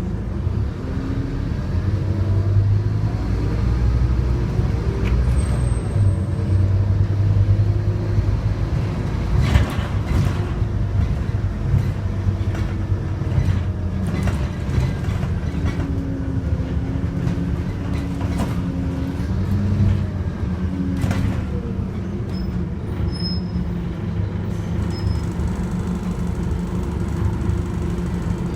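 Scania OmniCity double-deck bus's diesel engine running as the bus drives, its pitch rising and falling several times with acceleration and gear changes, with a few sharp knocks or rattles along the way.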